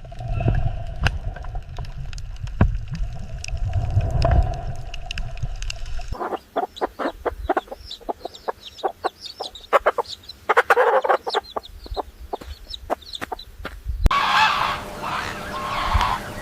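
Chickens clucking in a quick series of short calls, after a stretch of low rumbling noise with scattered clicks. Near the end a denser chorus of overlapping fowl calls begins.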